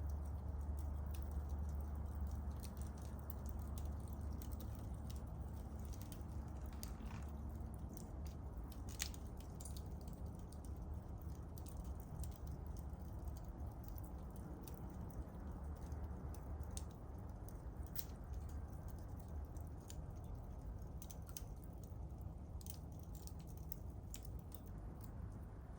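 Small wood campfire crackling: scattered sharp pops and snaps, a few seconds apart, over a low steady rumble.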